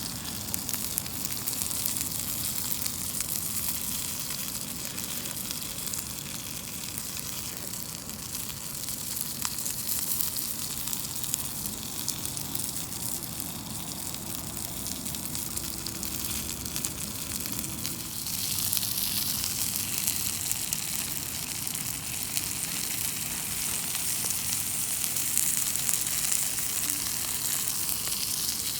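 Chicken thigh frying in a cast-iron skillet over a campfire, a steady sizzle that grows louder about two-thirds of the way through.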